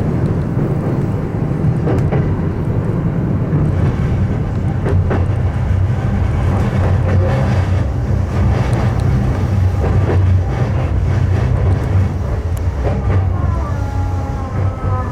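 Electric commuter train running on the line: a steady low rumble of wheels on rail, with scattered clicks as it passes over rail joints and points. Near the end a whine shifts in pitch.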